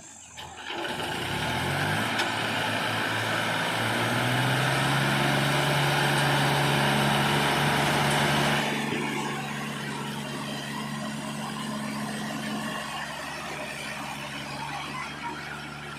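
Heavy diesel engine revving up over the first few seconds and running hard, then dropping back about halfway through to a steadier, quieter run.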